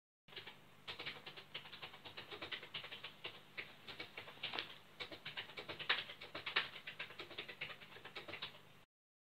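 A dense, irregular run of small clicks and taps, several a second, which starts and cuts off abruptly.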